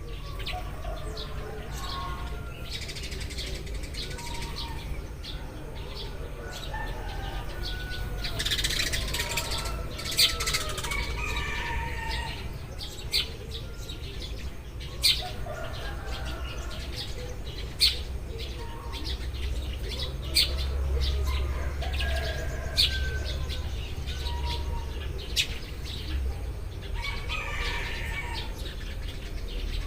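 A group of Eurasian tree sparrows chirping continuously in short overlapping calls. Sharp taps stand out now and then, with a steady low rumble underneath.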